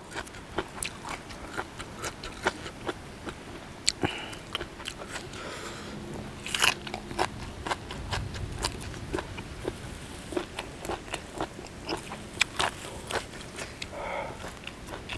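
Close-up crunching and chewing of a mouthful of spicy apple snail salad, eaten for its crunch: a steady run of irregular crisp crunches, a few louder than the rest.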